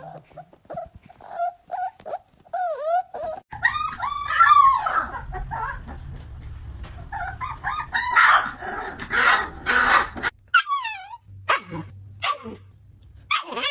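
Dogs whining and yipping in short high-pitched calls, then a louder stretch of barks and yelps, with falling whines near the end.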